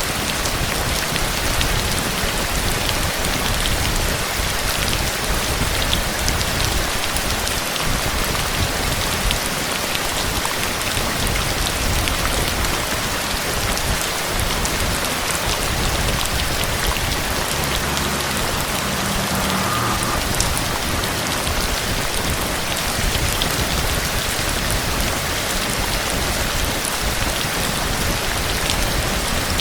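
Steady, heavy rain falling, an even hiss dense with the ticks of individual drops hitting surfaces.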